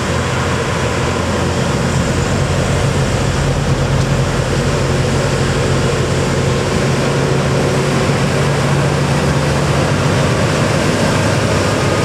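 Heavy truck's diesel engine running under load as it climbs a hill, a loud, steady drone held at nearly one pitch throughout.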